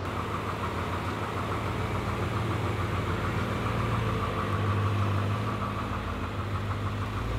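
BMW F10 M5's rebuilt S63 twin-turbo V8 running steadily at low speed, a little louder about halfway through, with a steady higher whine above the engine note.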